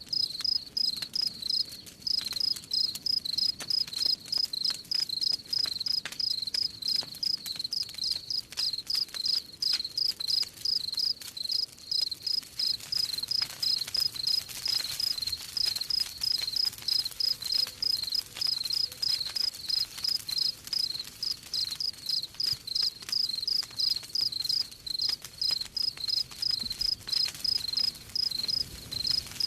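Crickets chirping in a steady, even rhythm, about two to three high-pitched chirps a second, over the light crackle of a campfire.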